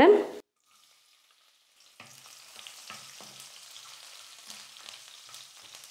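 Chopped garlic, cumin seeds and cashews frying in hot oil in a kadai. A faint steady sizzle with small crackles starts about two seconds in, after a moment of silence, while a wooden spatula stirs them.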